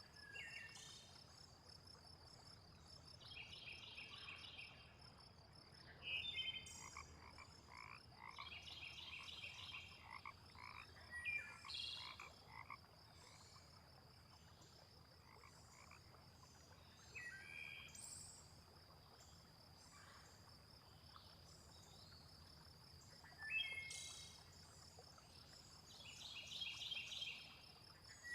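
A faint frog chorus: bouts of rapid pulsed croaking calls recurring every few seconds, with lower croaks in the middle, over a steady high insect trill and a few short bird chirps.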